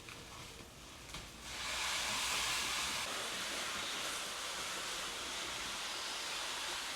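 A steady rushing hiss sets in about a second and a half in and holds evenly, after a quieter stretch of faint background sound.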